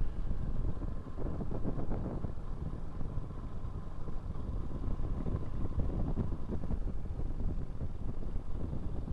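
Wind buffeting the microphone of a moving motorcycle, with the bike's engine and road noise running underneath and a faint steady whine.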